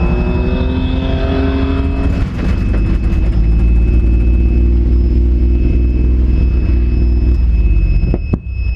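Pontiac Fiero GT race car's engine running hard at a fairly steady pitch, heard from inside the car, with a thin steady whine above it. It briefly breaks a little after two seconds in and dips sharply near the end.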